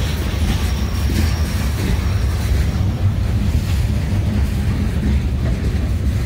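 Freight train's boxcars rolling past at close range: a steady low rumble of steel wheels on the rails.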